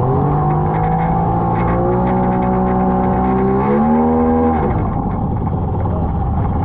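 Outboard engine on an inflatable jet boat revving up, holding a steady note that climbs slightly, rising once more and then backing off about four and a half seconds in, over a constant rush of water and wind.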